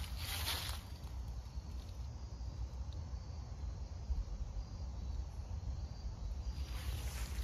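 Insects chirping, a faint high chirp repeating about once a second over a low rumble. Footsteps on the trail are heard in the first second and again near the end.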